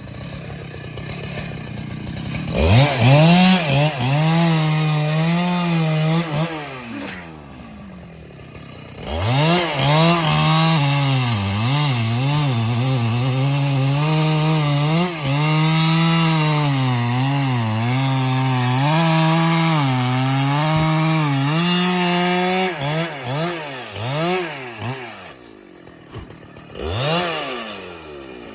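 Husqvarna 395XP two-stroke chainsaw revving up, easing off, then running at full throttle in a cut, its engine speed dipping again and again under load as the chain bites into the trunk. Short blips of the throttle near the end.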